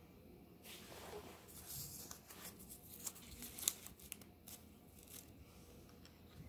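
Paper and cardboard scraps crinkling and rustling as they are pressed down into a toy garbage truck's body, with a few sharp clicks, the loudest a little past halfway.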